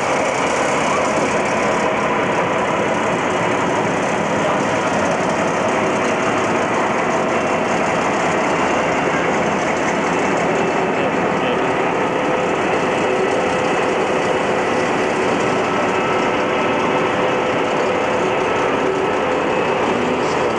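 A railway train running steadily: an even, unbroken noise with a few faint steady tones over it and no distinct exhaust beat.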